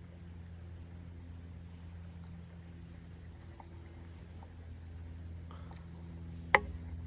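Insects, crickets, trilling steadily and high-pitched, with a single sharp click near the end.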